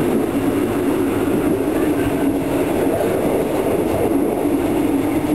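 A passenger train running, heard from inside the carriage: a steady, loud rumble of wheels and carriage noise with no pauses.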